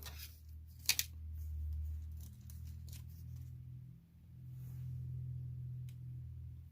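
Small metal axle shafts handled and set down on a small digital scale: a sharp click about a second in and a few lighter ticks later, over a low steady hum.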